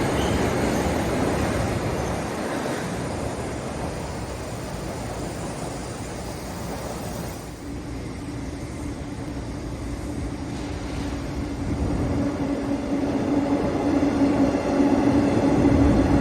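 Train on the rails, its rumble fading over the first several seconds, then a steady hum coming in about halfway and growing louder toward the end.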